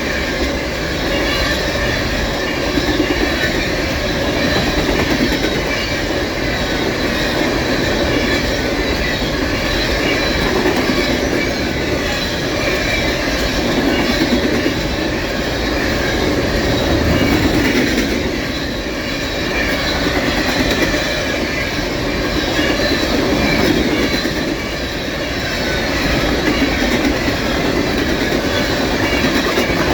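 Norfolk Southern loaded coal train's hopper cars rolling past, a steady clatter of wheels over the rails with some thin wheel squeal.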